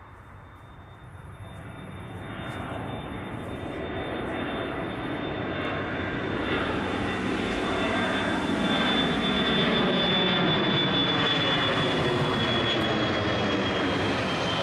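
Airbus A340-300's four CFM56-5C turbofan engines at takeoff power, growing steadily louder over several seconds as the airliner approaches, then holding at full volume. A high steady fan whine runs over the jet noise and drops slightly in pitch near the end.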